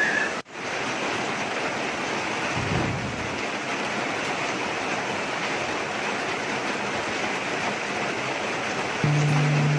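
Heavy rain pouring down in a steady, dense hiss, broken by a brief cut about half a second in. Near the end, background music with a low steady tone comes in over the rain.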